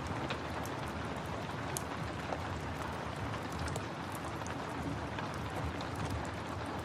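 Steady rain hiss mixed with a wood fire crackling, with sharp pops scattered irregularly through it.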